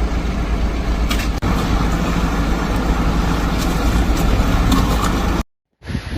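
A motor vehicle engine running steadily with a deep rumble and a few light knocks. It cuts off abruptly about five and a half seconds in.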